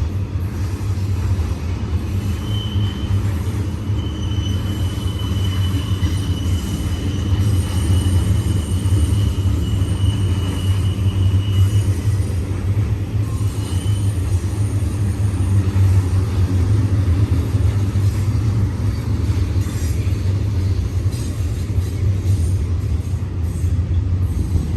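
BNSF double-stack intermodal train rolling through a sharp curve: a steady, loud rumble of wheels on rail, with a thin high wheel squeal from about two seconds in until about twelve seconds, and briefly again near fourteen.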